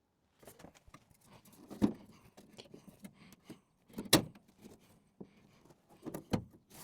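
Light clatter and a few knocks of sheet-steel being handled and offered up to the car's wheel arch to test its fit, with the sharpest knocks about two and four seconds in.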